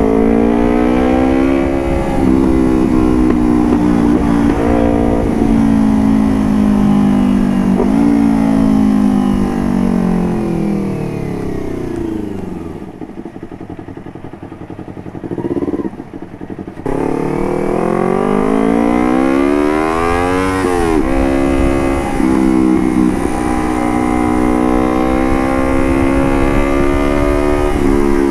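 Motorcycle engine running through a carbon Puresound aftermarket exhaust under riding load. The note holds steady, falls away as the bike slows and goes quieter on a closed throttle for a few seconds, then climbs sharply under acceleration. Two quick dips follow, like gear changes, before it settles back to a steady cruise.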